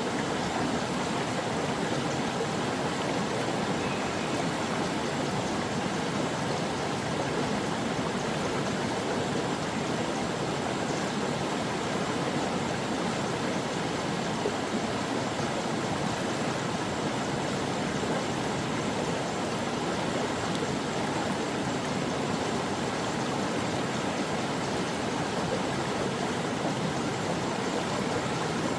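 A flowing stream: water running steadily over rocks, an even rushing noise with no separate events.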